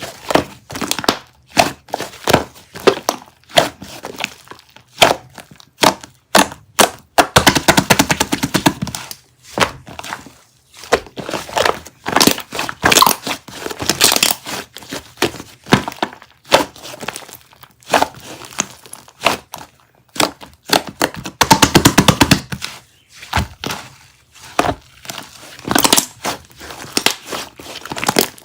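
Slime being squeezed, pressed and poked by hand, giving sharp pops and crackles. Two runs of fast, dense crackling stand out as the loudest parts.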